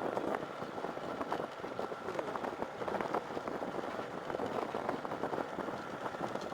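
Motorcycle riding over a rough dirt road: the engine runs under a dense stream of irregular rattles and knocks from the bumpy surface.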